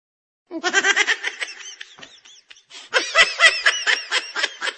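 Laughter: quick runs of 'ha-ha' bursts starting about half a second in, dying down near the two-second mark, then a second, louder run of laughter.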